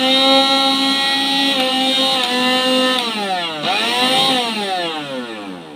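Prestige Stylo mixer grinder motor running with the large dry-grinding jar fitted, giving a steady high whine. About three seconds in, the whine starts falling and rising in pitch as the motor is switched off and on, slowing down and spinning back up.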